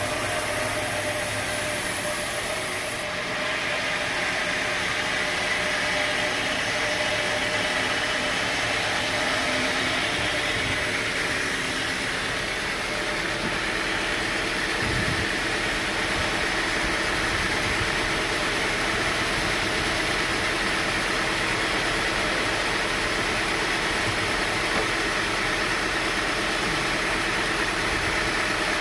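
Sawmill machinery running steadily, a continuous mechanical drone with a hiss; a high hiss drops out about three seconds in.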